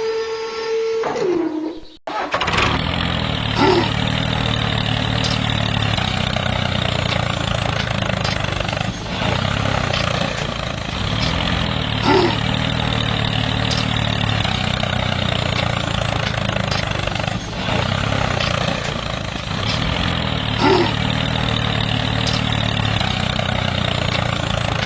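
Music stops suddenly about two seconds in, and a small engine then runs steadily, with a few short brief accents every several seconds.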